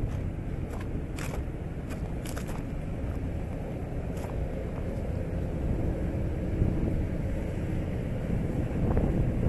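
Strong wind buffeting the microphone in a dust storm, a steady low rumble, with scattered sharp ticks in the first half.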